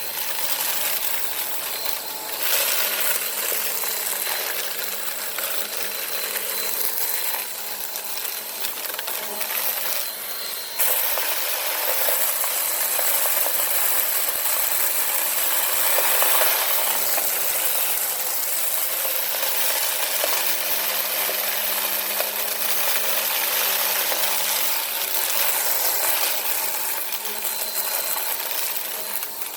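Vacuum cleaner running steadily while it picks up a test mess of sand and debris, with a steady motor hum under a dense gritty hiss. It gets louder and brighter about eleven seconds in.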